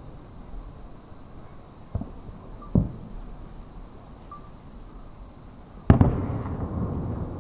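Distant aerial fireworks shells bursting as low booms: two lighter ones about two and three seconds in, then a much louder boom near six seconds that trails off in a long rumble.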